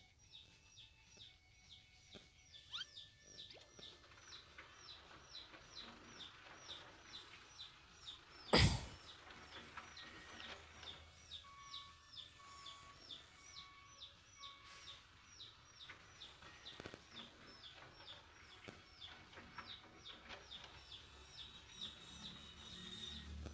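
A small bird chirping over and over, about three short falling chirps a second. A single sharp click, the loudest sound, comes about eight and a half seconds in.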